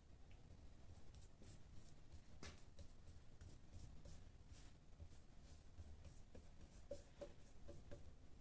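Faint scratchy rubbing strokes, a couple to a few a second, of polishing compound being worked into wood by hand, with a few small ticks near the end.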